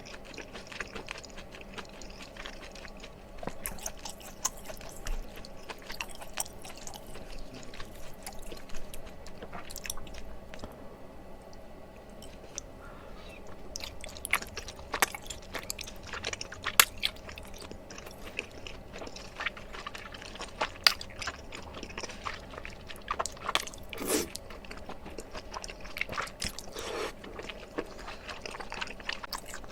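Close-miked chewing and wet mouth clicks of someone eating chewy rice cakes in mala tteokbokki, with irregular sharp clicks all through.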